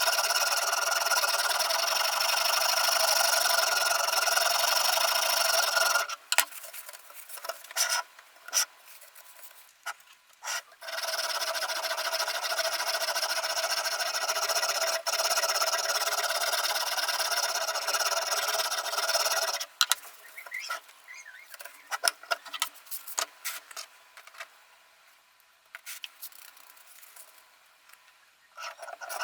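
Sharpening stone on the arm of a Ruixin Pro RX-008 guided sharpener stroked along the edge of a VG10 Damascus chef knife, a continuous rasping scrape with a ringing edge. It runs for about six seconds, stops for a few seconds of light clicks and taps, scrapes again for about nine seconds, then pauses longer with scattered clicks before starting again right at the end.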